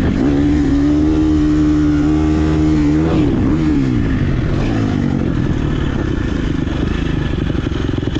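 Dirt bike engine running hard under throttle, its pitch held high for about three seconds, then dropping as the throttle closes about three seconds in, then running at lower revs.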